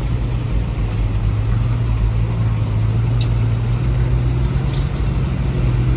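Steady motor drone from working construction machinery, its pitch creeping up slightly.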